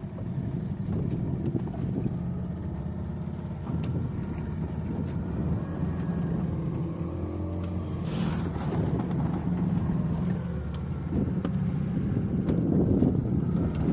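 A fishing boat's engine running steadily, with a brief rush of noise about eight seconds in.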